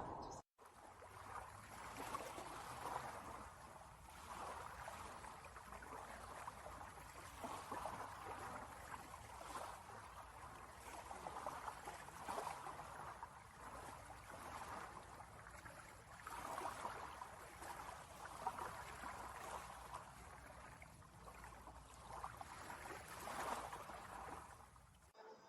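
Water rushing, a steady hiss that swells and eases every couple of seconds.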